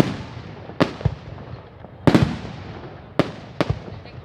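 Aerial fireworks shells bursting, five sharp bangs in just over four seconds, each followed by a fading echo.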